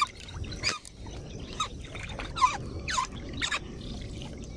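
Birds chirping: short, repeated calls that slide down in pitch, about one a second, over a low rustling background.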